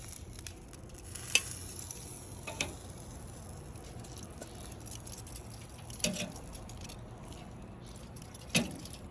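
Food sizzling faintly and steadily on a charcoal grill, with four sharp clinks of metal cooking utensils spread through it; the last is the loudest.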